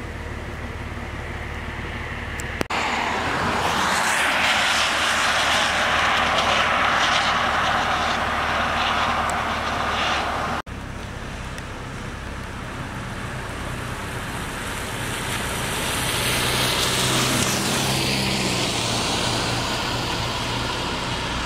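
Rain hissing down, with vehicles passing on wet roads, their tyre hiss swelling and fading as they go by and a low engine note about two-thirds of the way through. The sound breaks off abruptly twice where shots change.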